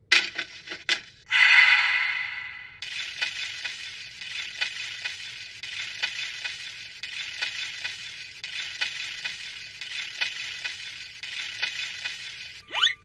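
Cartoon sound effects: a few clicks and a short loud hiss, then a long steady sizzling hiss with scattered crackles, ending in a quick rising whistle.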